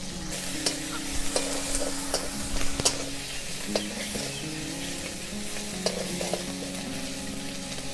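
Onion paste, chopped onion, chillies and ginger-garlic paste sizzling in hot oil in a large metal kadai, with a steady hiss. A metal spatula stirs them, scraping and clicking against the pan now and then.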